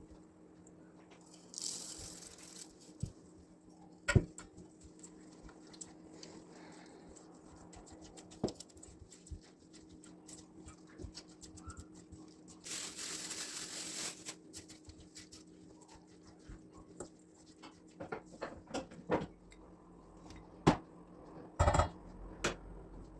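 Scattered clicks and knocks of objects being handled, with two bursts of hiss lasting about a second and a half each and a steady low hum underneath; a cluster of louder knocks comes near the end.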